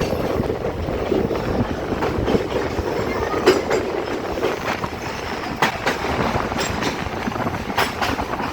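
Passenger train running along the track: a steady rumble of the carriages with the wheels clacking irregularly over rail joints.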